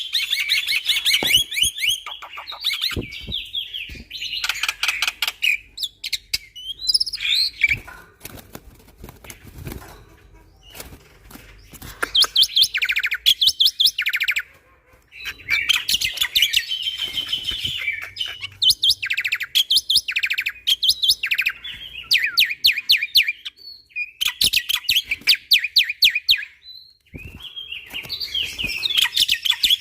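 Black-winged starling (jalak putih) singing energetically: bursts of rapid, machine-gun-like repeated notes, each lasting one to three seconds, broken by short gaps and a few warbled phrases.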